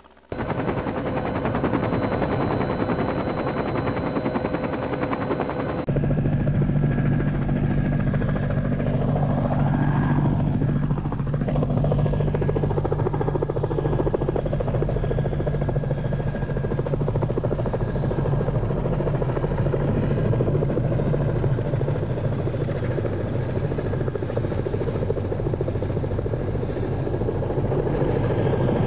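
Helicopter running close by, a loud, steady rotor chop over engine and turbine noise. It cuts to a second helicopter recording about six seconds in, with a deeper steady hum and a brief sweep in pitch.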